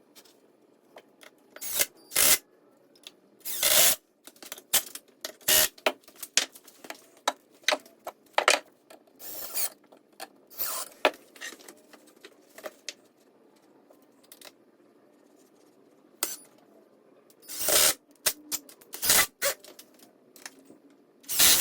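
Irregular knocks, clatter and short scraping bursts of hands and tools working on 2x4 lumber as cross beams are fitted into a wooden frame. The longer, louder bursts come about 4, 9, 11 and 18 seconds in.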